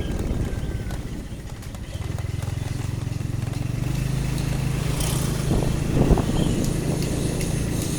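A motorcycle engine running steadily on the road, its note coming up about two seconds in, with a short knock about six seconds in.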